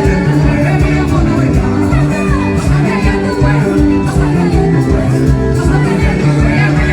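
Live band music with a strong bass line and a steady beat, with singing over it.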